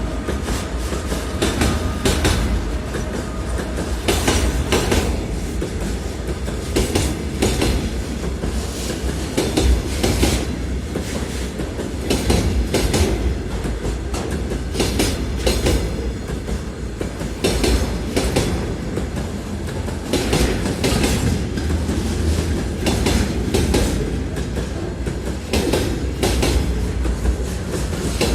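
Freight train rolling by at steady speed: a continuous low rumble with a long run of clicks as the wagon wheels clatter over the rail joints.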